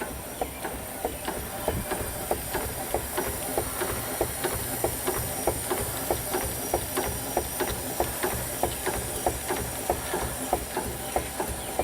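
A 5/8-scale Wood Brothers steam traction engine running, with a steady rhythm of sharp beats, about three a second, over a constant hiss of steam.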